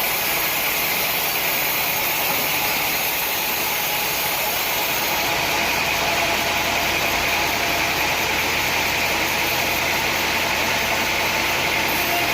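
Sawmill machinery running steadily, a constant engine-like hum and noise with no distinct cuts or impacts.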